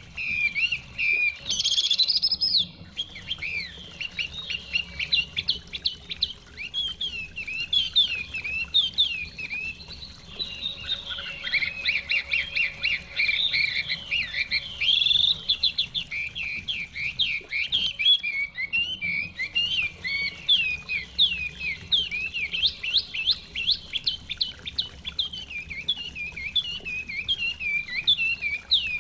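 Many songbirds chirping and trilling densely and continuously, over a faint low rush of flowing water.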